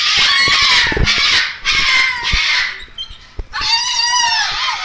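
A parrot screeching loudly in three long screeches.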